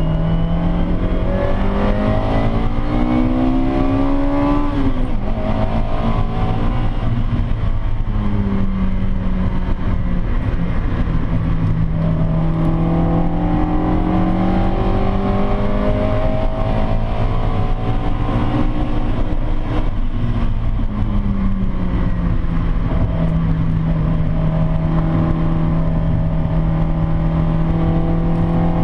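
Davrian Mk8 sprint car's Hillman Imp four-cylinder engine heard from on board under hard driving. It revs up over the first few seconds, drops sharply in pitch about five seconds in as a gear changes, then holds a fairly steady pitch with another dip and rise about two-thirds through, over constant road noise.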